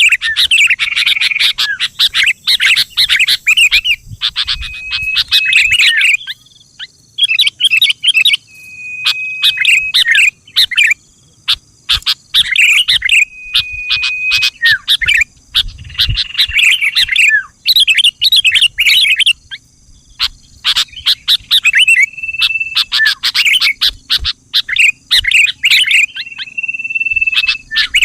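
Sooty-headed bulbul (kutilang) singing in repeated phrases of quick chattering notes, some ending in a short held whistle, with brief pauses between phrases.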